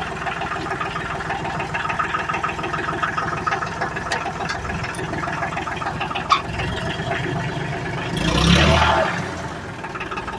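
Ford 1720 compact tractor's three-cylinder diesel engine running as the tractor is driven, a steady engine note with a single click a little past six seconds and a louder rushing swell about eight seconds in.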